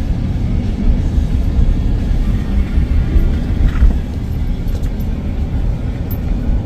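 Strong storm wind buffeting the microphone: a loud, low rumble that swells and dips with the gusts.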